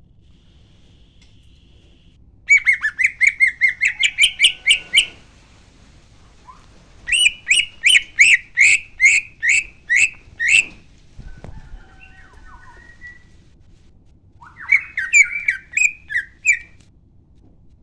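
Green leafbird (cucak ijo) singing in three bursts of fast, repeated loud notes, about four or five a second, with a few faint whistles between the bursts. This is the bird's excited song, used as a lure to set other cucak ijo singing.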